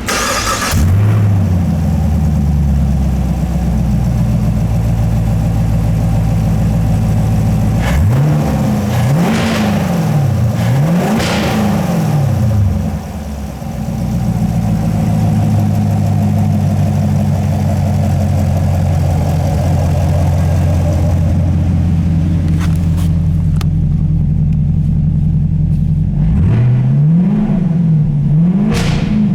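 2022 Camaro SS 6.2-litre Gen V LT1 V8 catching right at the start and settling to a steady idle. It is blipped twice in quick succession about eight seconds in, returns to idle, and is blipped twice more near the end.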